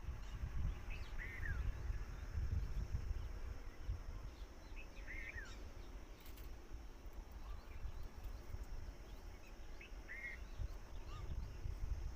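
Three short chirping bird calls, about four seconds apart, with a few fainter chirps between them, over a steady low rumble and a faint high hiss.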